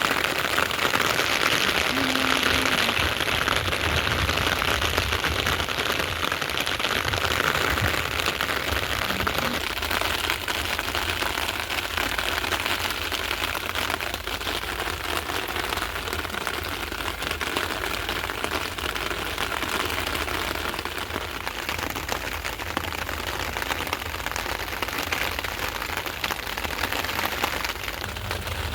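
Steady rain falling, a dense, even hiss of countless drops striking surfaces.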